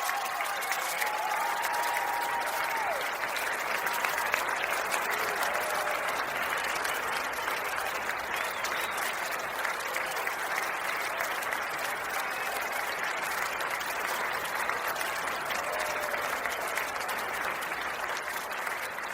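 Large crowd applauding and cheering steadily.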